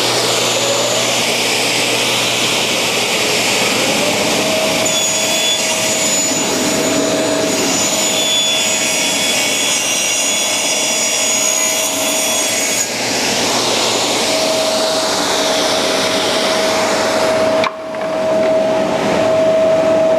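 Table saw cutting through a solid eastern maple panel, the blade running steadily under load with a steady whine. The sound dips briefly about three-quarters of the way through, then carries on.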